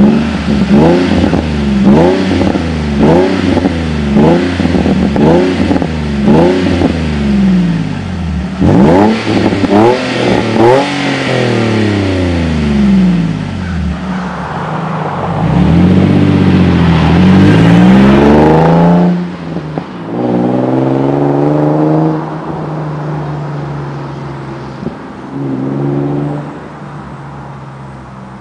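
Nissan 350Z's 3.5-litre V6 exhaust being revved: a quick string of short throttle blips, a few sharper revs, then a longer rev held high for a few seconds before it drops back to a steady idle, with one more short blip near the end.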